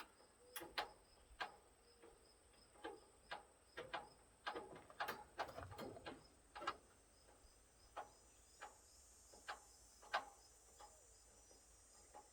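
Faint, irregular light clicks and knocks, one or two a second, from hands and tools working the grille's fasteners. A faint, steady high chirping, like an insect's, runs behind them.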